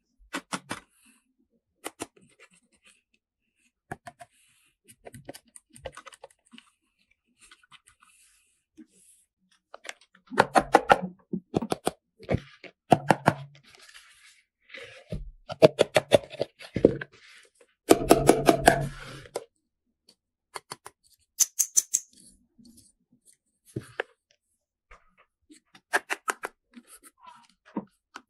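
Plastic toy parts being handled, giving quick runs of sharp clicks and rattles with short pauses between them. The busiest, loudest runs come about halfway through.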